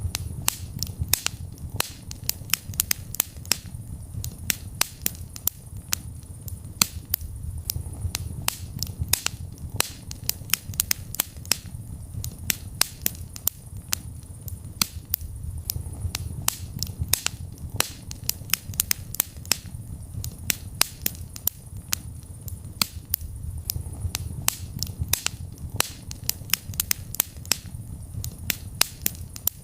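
Wood fire burning in a fireplace: dense, irregular crackles and sharp pops over a low rumble of the flames.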